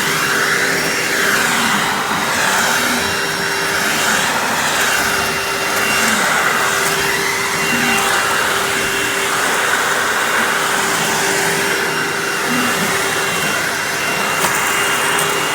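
Hoover WindTunnel Anniversary bagged upright vacuum cleaner running. Its steady motor hum sits under a rushing airflow that swells and fades every second or two.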